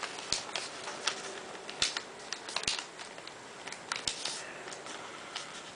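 A sheet of paper being handled, folded and creased by hand, making irregular crinkles and sharp little crackles.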